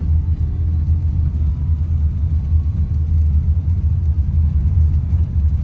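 A steady low rumble, with faint scattered ticks above it.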